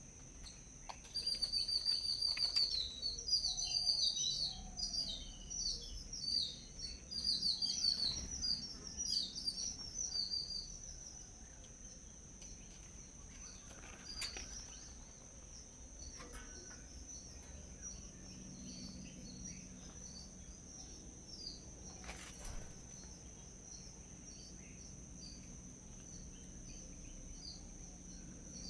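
Small birds chirping: a dense, rapid run of high chirps for about the first ten seconds, then only scattered chirps, over a steady high-pitched whine.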